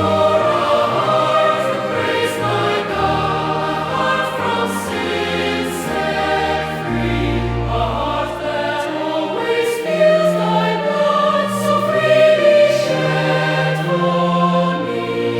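Choir singing a slow hymn, with sustained chords over a moving bass line.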